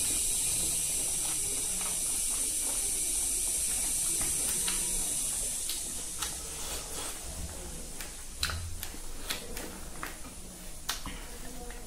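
A steady high hiss for the first half, then close-up eating sounds: wet chewing with a string of small smacking clicks from a man eating fried silkworm pupae and rice by hand.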